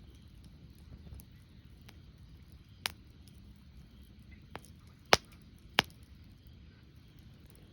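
Wood fire crackling: scattered sharp pops, the loudest two about five and six seconds in, over a low steady rumble.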